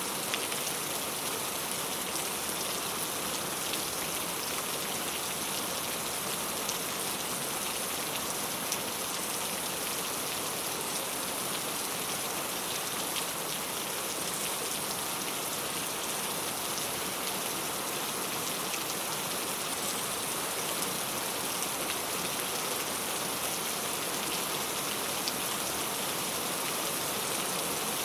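Steady rain falling on a clay-tile roof: an even hiss of rainfall with scattered individual drops ticking on the tiles.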